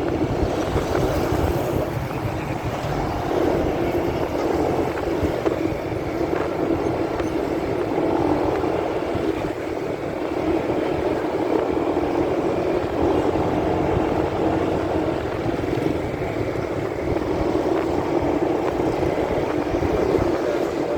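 Motorcycle on the move heard through a phone in a pocket: a steady, muffled run of engine and wind noise with no breaks.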